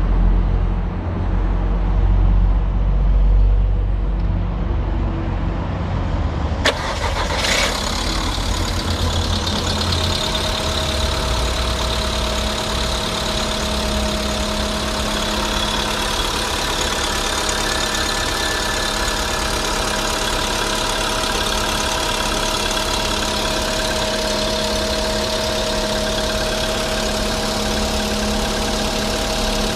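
Volkswagen 1.6 CFNA four-cylinder petrol engine starting cold about seven seconds in, after a low rumble, then settling into a steady idle with the knock typical of this engine on a cold start.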